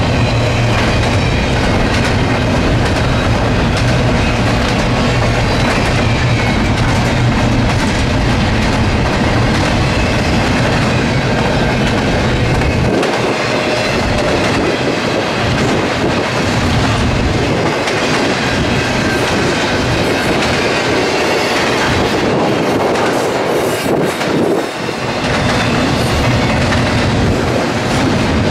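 Norfolk Southern freight train rolling past close by, with steady wheel-on-rail noise and clickety-clack of the cars over the rail joints. A deep low drone underneath drops away about halfway through.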